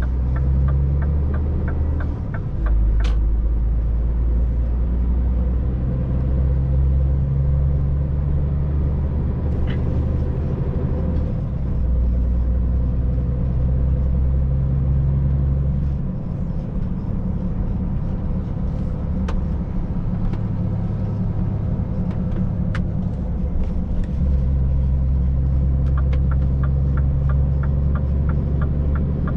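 Scania truck's diesel engine running at road speed, heard from inside the cab as a steady low rumble that changes in level a few times. A quick, regular ticking comes in near the start and again near the end.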